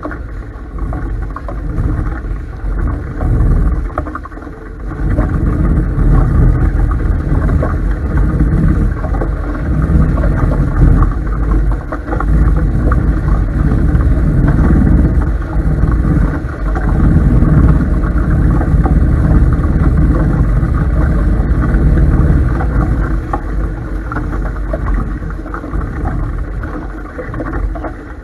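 Loud, surging rush of wind and water aboard a Topaz 16CX sailing catamaran in high wind, heaviest in the low end, dipping about four seconds in and then swelling louder.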